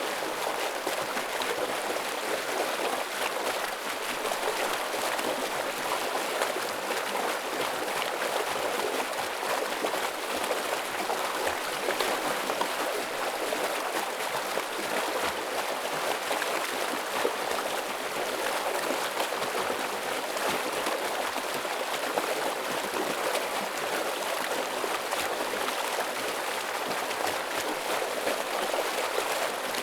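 Heavy stream of water flowing: a steady, full rushing and splashing without pauses.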